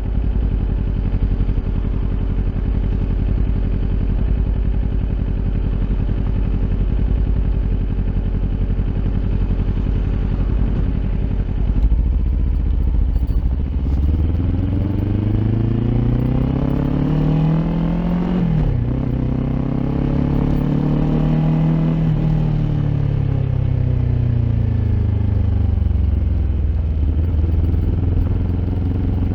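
Kawasaki Ninja 400 parallel-twin engine through an Akrapovic aftermarket exhaust. It runs steadily at low revs for the first half, then revs up with rising pitch. The pitch drops suddenly, climbs again briefly, and then falls away slowly as the revs come down.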